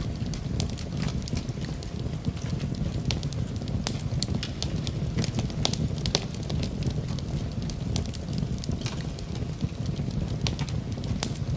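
Wood fire crackling in a fireplace: frequent irregular sharp pops and snaps over a steady low rumble, mixed with gentle rain.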